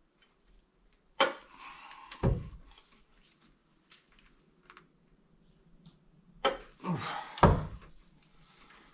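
A click-type torque wrench clicking as it reaches torque on the differential carrier bolts, with sharp metal clunks. The clunks come once about a second in, again near two seconds, and then three in quick succession late on.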